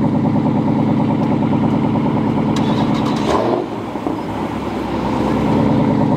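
Car engine idling loudly close by, its exhaust pulsing in a fast, even lope; the note wavers and drops briefly a little past halfway, then settles back.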